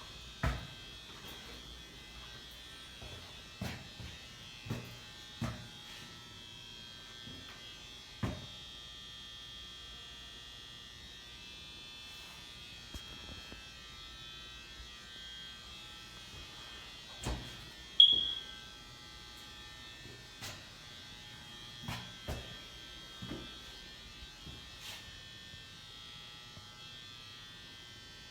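A steady high electrical whine and buzz, with a dozen or so scattered sharp clicks and knocks; the loudest click comes about 18 seconds in.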